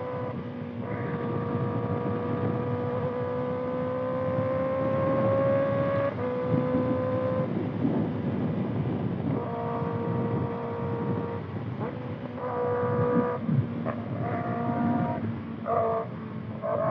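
Kawasaki ZX-6R's 636 cc inline-four, breathing through a Voodoo Racing slip-on exhaust, pulling at high revs while riding. Its pitch climbs slowly for several seconds, then drops sharply about six seconds in, and changes or breaks several more times in the second half as the throttle is rolled off and on, over a steady rushing noise.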